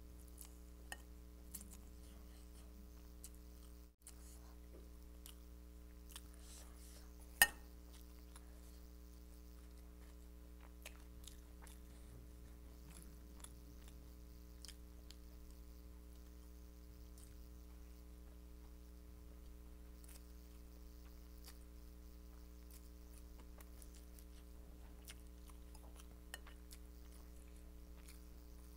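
Faint close-miked chewing and soft mouth sounds of Schezwan noodles being eaten by hand, with scattered small clicks and one sharp click about seven seconds in. A steady low hum runs underneath.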